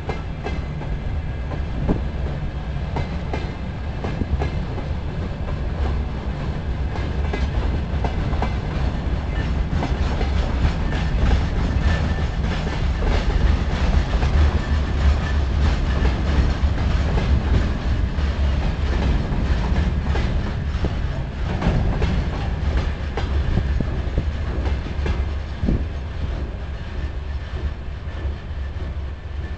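Freight train wagons rolling past, wheels clattering over the rail joints in a steady clickety-clack over a low rumble; the sound eases a little near the end as the last wagons go by.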